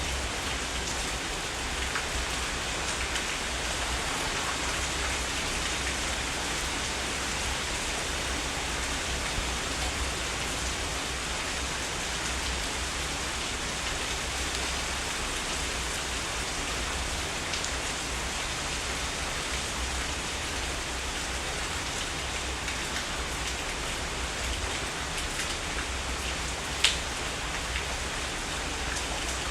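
Steady heavy rain falling, an even hiss of many drops striking surfaces, with a single sharp tap of a drop near the end.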